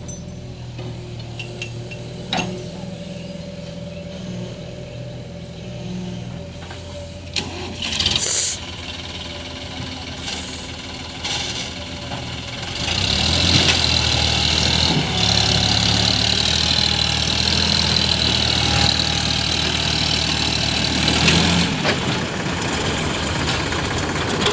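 Sonalika tractor's diesel engine running steadily at low speed, with a brief loud rush about eight seconds in. About thirteen seconds in it grows much louder with a high hiss over it as it works under load, easing slightly a few seconds before the end.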